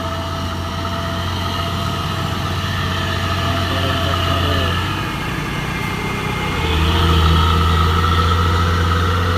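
Diesel engine of a heavily loaded truck running in low gear as it labours slowly up a steep grade, a steady low drone that dips briefly about halfway and grows louder about two-thirds of the way in.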